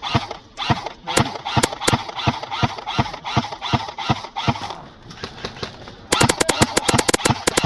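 Airsoft guns firing in close quarters: a string of single shots and BB hits for the first few seconds, then a rapid full-auto burst of about a dozen shots a second near the end.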